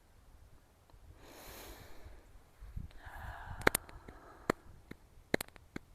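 A person breathing in audibly through the nose, followed by several sharp clicks.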